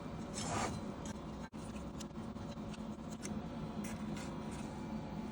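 Scraping, rubbing and small clicks of hand work over a steady low hum, with a momentary dropout about a second and a half in.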